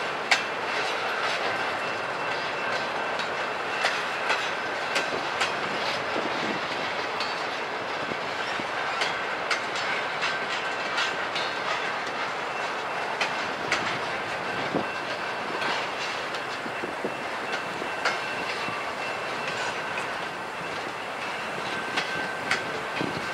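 BNSF double-stack container train rolling past: the steady rumble of its well cars' wheels on the rails, broken by many irregular clicks and clacks, with a faint high steady tone over it.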